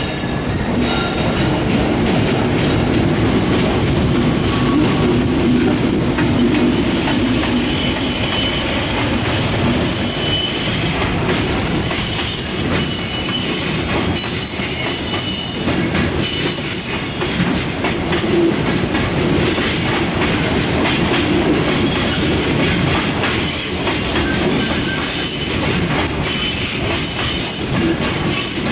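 Container freight train rolling past slowly on arrival: a steady low rumble with wheel clatter. From about seven seconds in, high squealing tones from the wheels and brakes sit over it, typical of a train braking to a stop.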